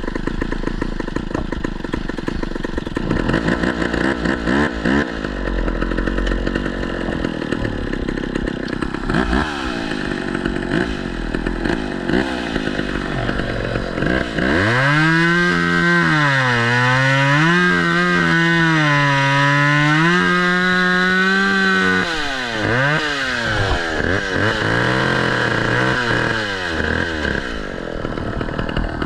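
Two-stroke chainsaw running and cutting wood, its engine pitch repeatedly dipping under load and climbing back. About halfway through it is held at high revs for several seconds, then it eases off.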